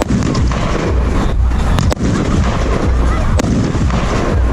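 Rockade War 88-shot firework display cake firing a dense, continuous barrage of shots, with several sharper reports standing out.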